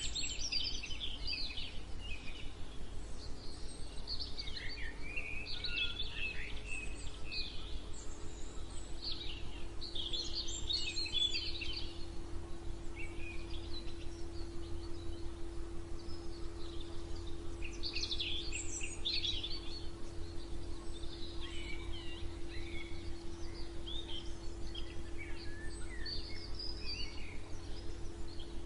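Several birds singing in a morning chorus, with bursts of quick chirps and trills coming and going. Under them runs a steady low hum and rumble.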